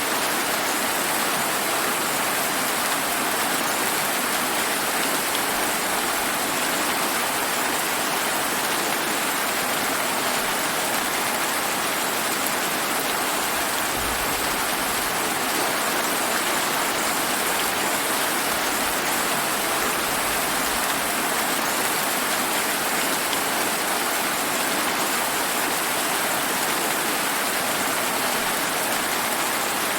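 Steady summer rain falling: an even, unbroken hiss that neither rises nor falls.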